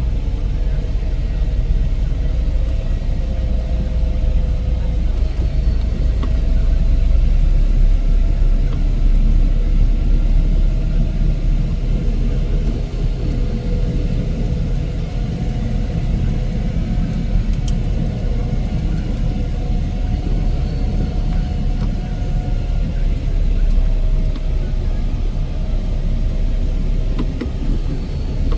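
Heavy snow-removal machinery running steadily: a low engine rumble with a faint whine that wavers slightly in pitch.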